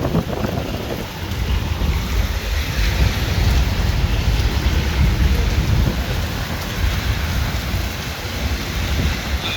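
Heavy rain pouring down in a severe thunderstorm, an even hiss with a strong, fluttering low rumble underneath.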